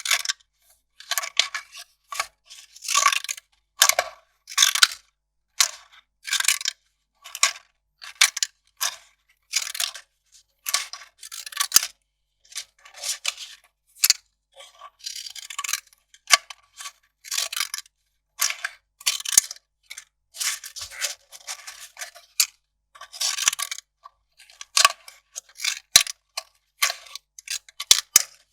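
Kraft paper being handled, rustling and crackling in short separate strokes, a little more than one a second, each dropping to silence before the next.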